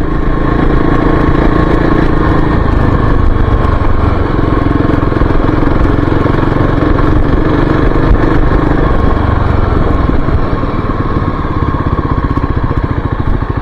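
Kawasaki KLX-300's single-cylinder four-stroke engine running while the dirt bike is ridden, steady and loud; near the end it eases off and the separate firing pulses come through.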